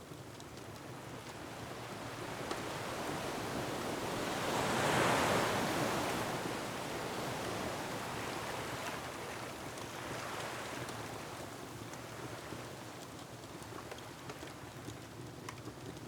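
Ocean waves surging against a rocky shore: one big wave swells up and washes in about five seconds in, and a smaller one follows near ten seconds. Faint crackles of a wood fire tick over it.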